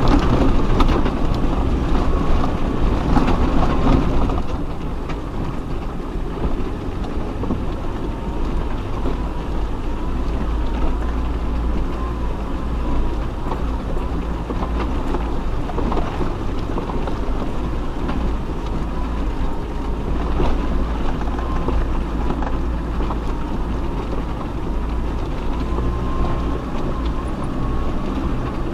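Off-road 4x4 vehicle driving slowly over a rough mountain track: a steady low rumble of engine and running gear with rattling, louder for the first four seconds.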